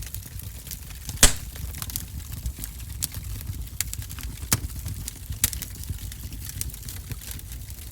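Wood fire in a wood-burning stove crackling, with scattered sharp pops over a low rumble; one loud pop about a second in.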